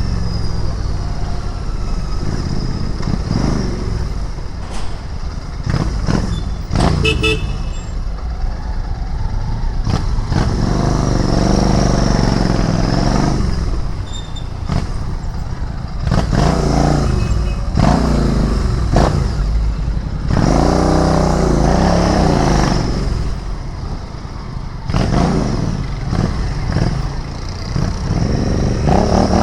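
Royal Enfield Interceptor 650's 648 cc parallel-twin engine pulling through city traffic, revving up and easing off several times as the bike accelerates, shifts and slows. A short high beep about seven seconds in.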